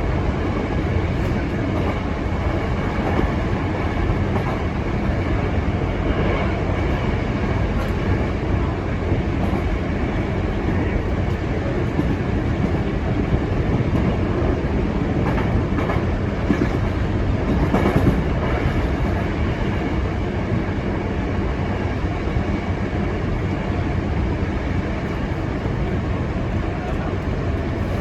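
Hankyu Imazu Line electric train running between stations, heard from inside the front car: a steady rumble of wheels on rail and running gear, with occasional clicks over the rail joints, the loudest about 18 seconds in.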